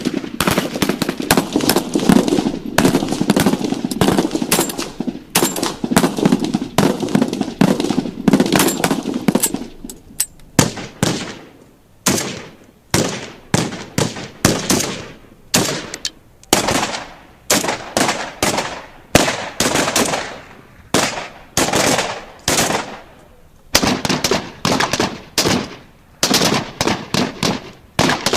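Automatic weapon gunfire: about ten seconds of sustained rapid fire, then a series of short bursts of several rounds each, separated by brief pauses.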